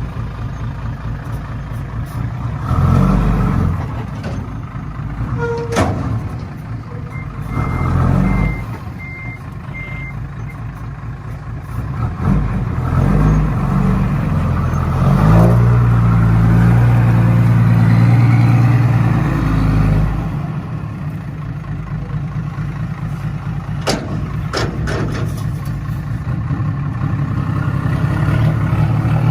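Heavy truck engine running and being worked, its note rising and swelling under load in places. A run of about five short high beeps sounds a few seconds in, and there are a few sharp knocks.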